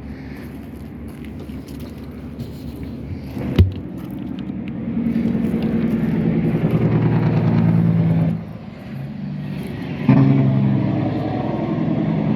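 A motor vehicle's engine running close by, growing louder, dropping briefly about two-thirds of the way through and then picking up again. A single sharp knock comes shortly before the engine sound builds.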